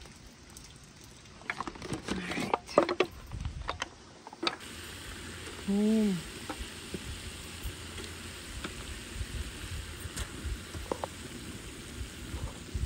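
Fish roe frying in hot oil and masala, a steady sizzle from about four and a half seconds on. Before that come a few scattered clicks and knocks.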